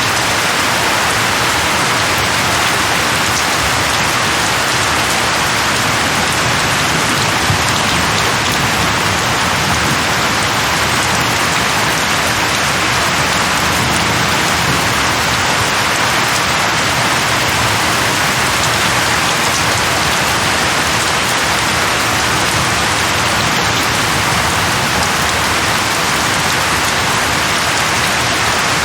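Steady, heavy rain falling on leaves, an even hiss with no let-up.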